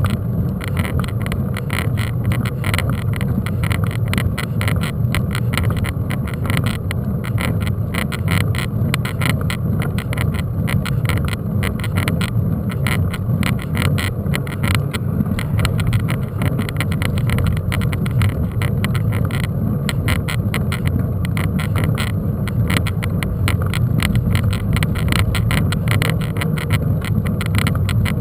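Mountain bike riding over rough trail, heard from a camera on the bike: a steady wind and road rumble with rapid, continuous rattling.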